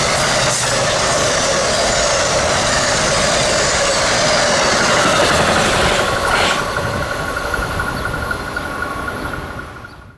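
A passenger train rushing past with a steady roar of wheels and cars. It begins to fade after about six seconds, and a steady high tone sounds over it near the end before the sound cuts off suddenly.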